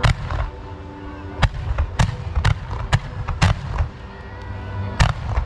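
Fireworks display: a rapid, irregular string of sharp aerial shell bangs, about seven loud reports in a few seconds, over a steady low rumble.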